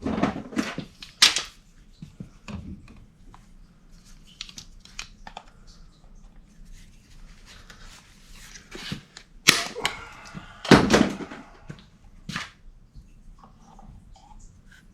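Hands working with tools and parts: a run of separate clicks, knocks and scrapes, loudest about a second in and again around ten to eleven seconds in.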